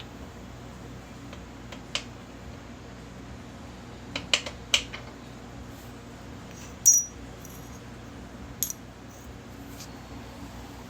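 Scattered sharp metallic clinks of hand tools or small metal parts being handled and set down: a single one, then a quick cluster of three, then a louder ringing clink about seven seconds in and one more after it. Under them runs a steady low hum.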